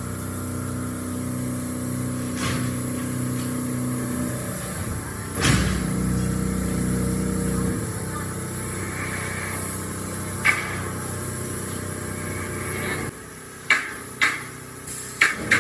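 A vehicle engine running steadily, with sharp metal knocks: one loud knock about five seconds in, another about ten seconds in, and several quick knocks near the end.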